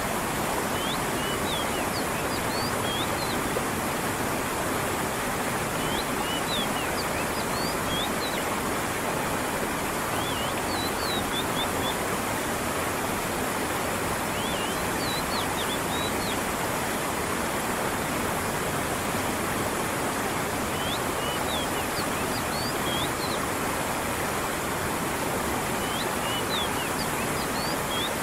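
Steady rush of stream water flowing and falling, with a bird giving short bursts of high chirps about every five seconds, six times in all.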